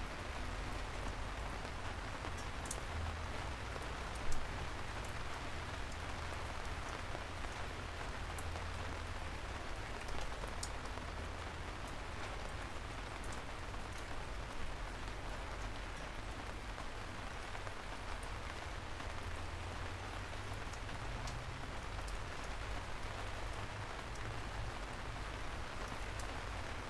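Steady rain falling on a surface, with scattered individual drops ticking sharply and one louder drop knocking about four seconds in.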